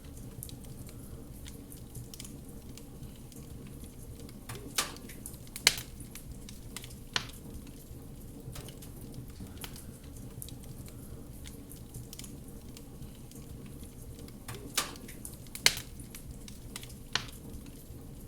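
Wood fire crackling with a scatter of small ticks over a low, steady rumble. Sharp louder pops come in two clusters of three, about five and fifteen seconds in.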